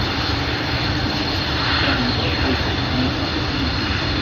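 Jet aircraft engine noise from a display flypast: a steady, loud roar that swells slightly about two seconds in.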